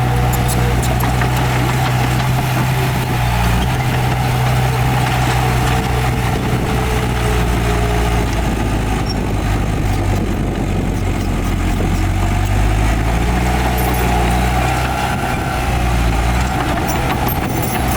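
Heavy diesel engine of earthmoving machinery running steadily, a low drone whose pitch shifts slightly a few times.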